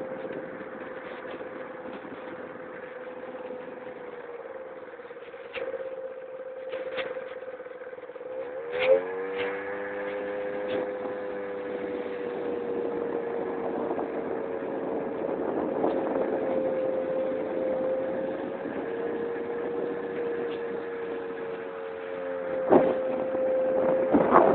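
Keeway Hurricane scooter engine running with a steady drone under way. Its pitch rises as it is throttled up about nine seconds in, and a few sharp knocks sound over it, the loudest near the end.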